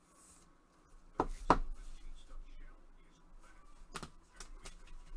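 A few sharp clicks and taps with light rustling from handling trading card packaging and cards; the loudest two clicks come close together about a second in, another near the end.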